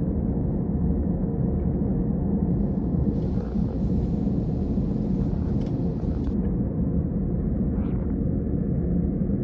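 Cabin noise of an Airbus airliner: a steady, loud low rumble of jet engines and airflow, with a few faint clicks.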